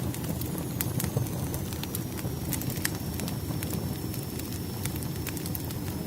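Firewood burning in a fireplace: a steady low rumble of flames with frequent sharp, irregular crackles and pops from the burning wood.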